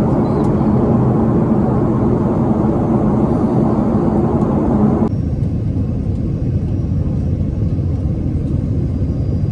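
Steady engine and air rumble inside a jet airliner's cabin. About five seconds in it cuts abruptly to a slightly quieter, duller rumble.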